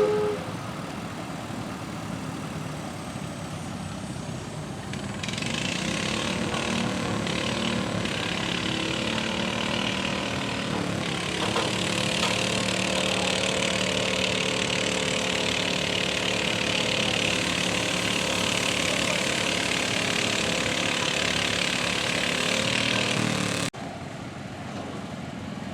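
Garden tractor engine running steadily, growing louder about five seconds in and stopping abruptly near the end.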